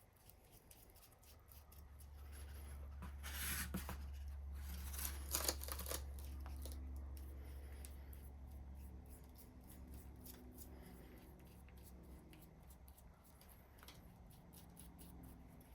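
Faint handling and rustling noises as paint remover is worked onto the vise parts, with two louder brief noisy rustles about three and a half and five seconds in, over a low steady hum.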